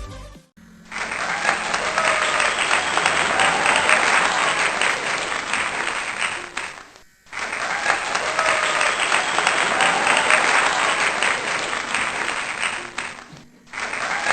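A crowd clapping and cheering, played twice in a row as the same stretch of applause, each time fading out into a short gap.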